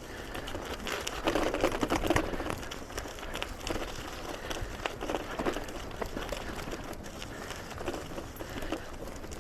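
Bicycle being ridden along a trail: tyre noise and rattling with many small clicks and crackles, louder for about a second starting around a second in.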